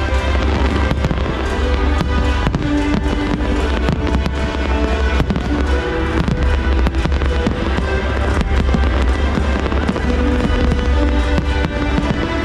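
Fireworks display bursting in rapid, continuous succession, many sharp bangs over a steady low rumble, with music playing underneath.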